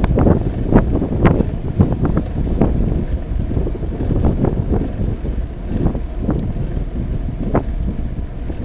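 Wind rumbling on an action camera's microphone during a bicycle ride, with frequent knocks and rattles from bumps, thickest in the first few seconds.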